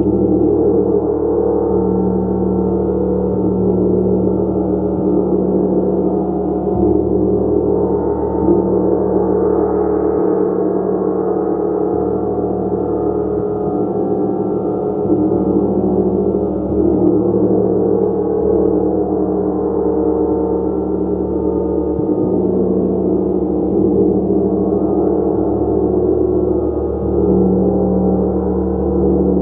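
A gong played continuously in a sustained, shimmering wash of many overlapping tones, steady in loudness with no distinct separate strikes standing out.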